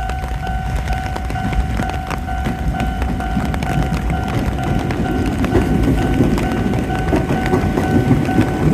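Train rumbling along the rails, growing louder from about halfway, under a steady pitched signal tone that breaks off at short regular intervals.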